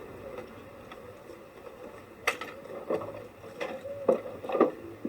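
Hands working on parts in a car's battery compartment, loosening the battery's breather pipe: a few sharp clicks and knocks in the second half, over a faint steady hum.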